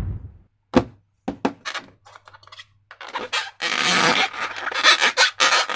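Handling sounds from making balloon slime: a few sharp knocks in the first two seconds, then from about three seconds in a run of quick rubbing and scraping strokes.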